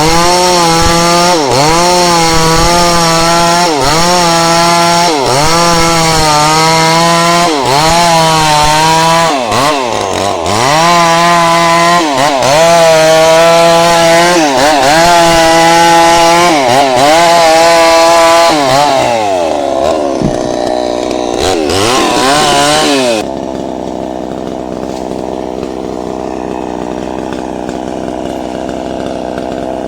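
Two-stroke chainsaw ripping a log lengthwise into boards, its engine pitch dipping and recovering about once a second as the chain bogs under load in the cut. Near the end the revs fall away and it drops abruptly to a quieter steady idle.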